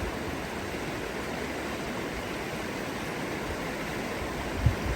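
A river flowing, with a steady, even rushing of water. A couple of soft low thumps come near the end.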